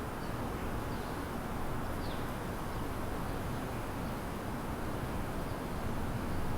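Steady low rumble of city background noise, like distant traffic, with a few faint, short bird chirps over it, one a quick falling note about two seconds in.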